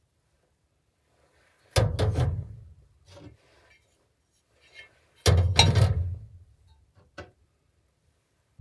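Two loud clusters of knocks about three and a half seconds apart, each a quick run of hard hits that dies away within a second, with a few light clicks between them.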